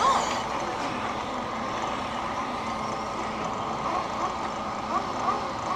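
Several radio-controlled short course trucks racing around a dirt track: a steady din of motors and tyres, with a few brief rising-and-falling whines as individual trucks accelerate and pass.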